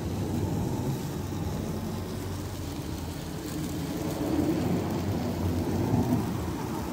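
Sauce-coated chicken sizzling and crackling on a wire rack over a charcoal fire, with a low rushing rumble beneath that rises and falls.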